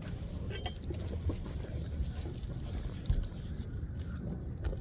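Low, steady rumble on the phone's microphone, with a few faint knocks and clicks.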